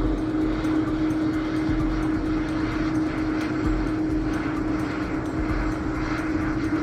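Airbus A330-200 jet airliner's engines running: a steady drone with a constant hum.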